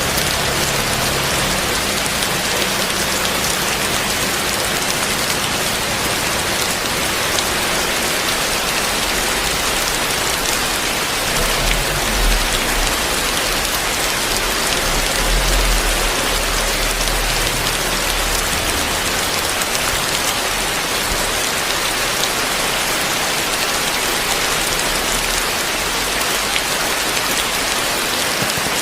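Heavy rain falling steadily, a dense hiss of drops, with brief low rumbles about twelve and sixteen seconds in.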